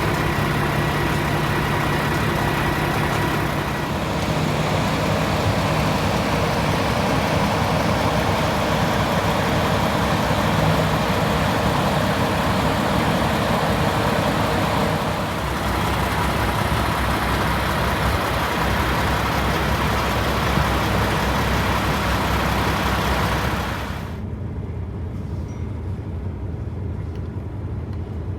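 Semi truck driving: steady engine hum and road noise. About four-fifths of the way through, the higher, hissing part of the noise cuts off suddenly and a quieter low rumble remains.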